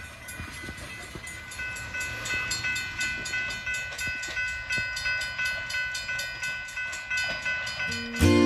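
Train rolling by with a steady rhythmic clacking, about two to three beats a second, and steady high ringing tones held throughout.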